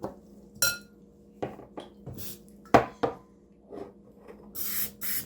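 Hard objects being handled: several sharp clicks and clinks, one ringing briefly. Near the end an aerosol spray can starts hissing.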